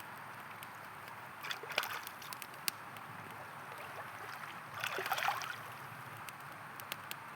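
River flowing as a steady rush, with scattered crackles from a wood campfire. Two short louder swells of water sound come about one and a half seconds in and again about five seconds in.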